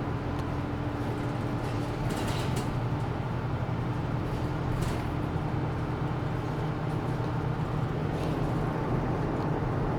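Isuzu Erga Mio bus's diesel engine running steadily while the bus drives, heard from inside the cabin, with brief high hissing rattles about two and five seconds in.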